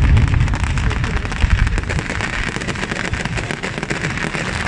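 Fireworks going off: a dense, rapid crackle of many small bursts over a low rumble of booms, the booming heaviest in the first second or so.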